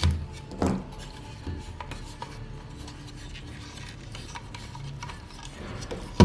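Alloy-and-plastic transforming robot toy being handled: parts rub and click, with a sharper knock just under a second in.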